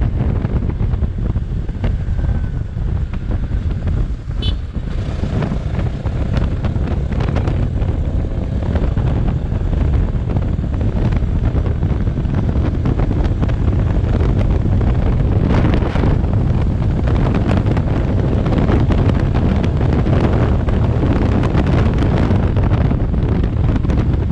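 Riding a Bajaj Pulsar NS 200 motorcycle: heavy wind rumble on the GoPro microphone covers the running single-cylinder engine. There is a brief high chirp about four and a half seconds in.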